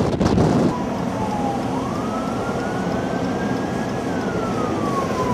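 A wind gust buffets the microphone, then a siren wails over steady blizzard wind, its pitch slowly rising and falling.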